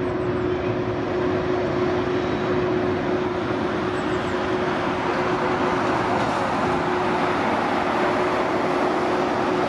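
Jet airliner engines, a steady roar with one constant hum tone running through it, growing a little louder over the first couple of seconds.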